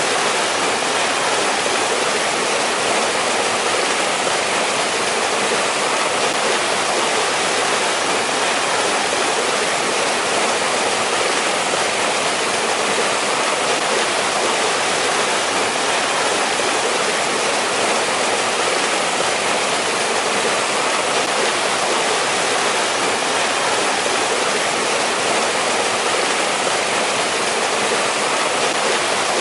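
Mountain stream rushing over rocks in a winter valley: a steady, even rush of water with no breaks.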